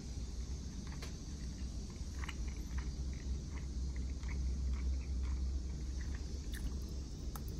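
Someone chewing a mouthful of chicken and rice close to the microphone: soft, scattered mouth clicks several times a second, over a steady low hum.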